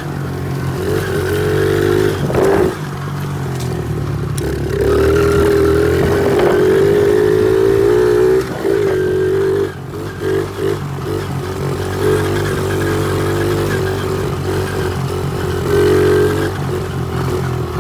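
Honda XR70 pit bike's small single-cylinder four-stroke engine running while ridden, its revs rising and falling with the throttle. The throttle is chopped several times about ten seconds in.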